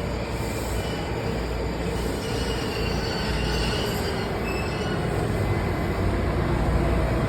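Washington Metro train rolling along the station platform, steel wheels squealing faintly on the rails over a steady rumble that grows slightly louder toward the end.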